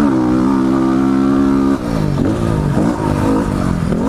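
Big-bore 2009 Yamaha WR250R single-cylinder four-stroke with an FMF exhaust, held at steady high revs for nearly two seconds. Then the throttle is chopped and the engine revs up and down three times.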